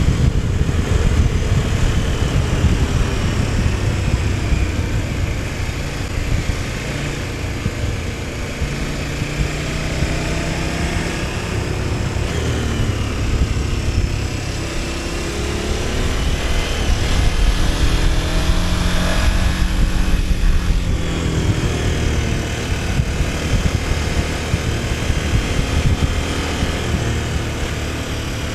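KTM 1290 Super Adventure S V-twin engine running under way, its pitch rising and dropping again and again as the bike accelerates and shifts, with wind noise over it.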